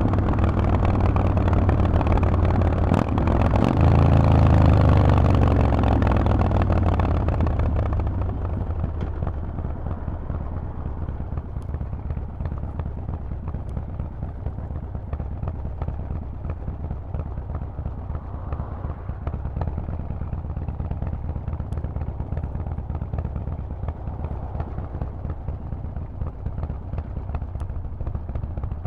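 Harley-Davidson Forty-Eight's 1200 cc air-cooled V-twin running through a Vance & Hines aftermarket exhaust, loud under throttle with a rise in revs about four seconds in. After about eight seconds it drops off and keeps running quieter and steadily.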